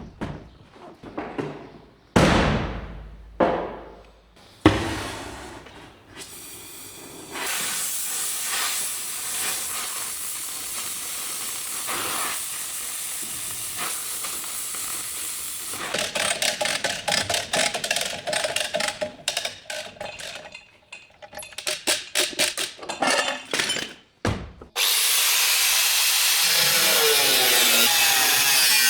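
Body-shop tool noises in succession: a few sharp knocks at the start, a steady hiss for several seconds, a fast run of rattling strokes, then a loud steady hiss from near the end.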